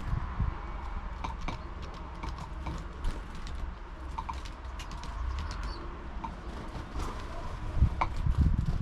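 Small birds at a seed feeder, tapping and pecking in irregular clicks, with a few faint short calls.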